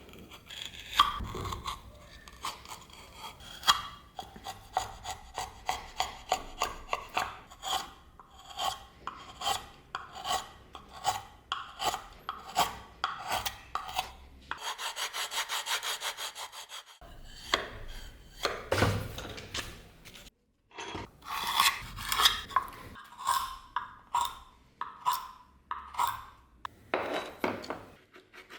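Hand filing in repeated short scraping strokes, about one to two a second, with a steadier continuous scrape for a couple of seconds in the middle and brief breaks between passes.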